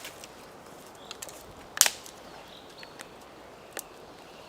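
Freshly lit campfire of birch bark and dry branches crackling, with scattered sharp pops and one loud crack about two seconds in.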